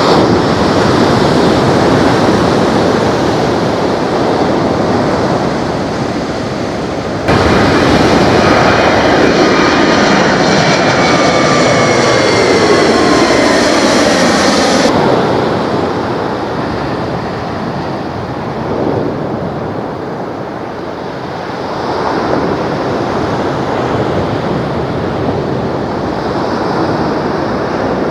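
Jet airliner engines at high power: an Airbus A321neo on departure, passing with a falling whine about halfway through. After a sudden cut, a quieter, steady jet sound from another airliner swells briefly near the end.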